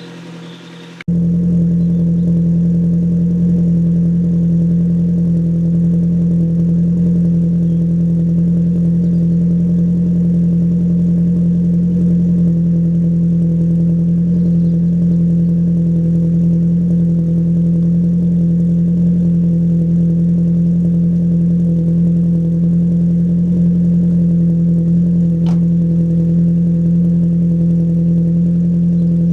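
Ford Focus RS Mk1 four-cylinder petrol engine idling steadily while it warms up after a cold start on a frosty morning. The level jumps up about a second in and then holds even.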